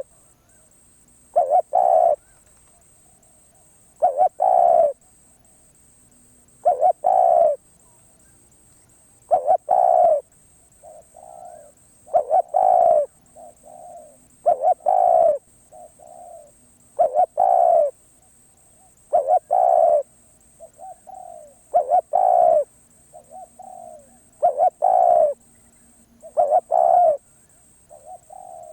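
Spotted dove cooing, a loud phrase repeated about every two and a half seconds, with softer, shorter coos in between from about ten seconds in.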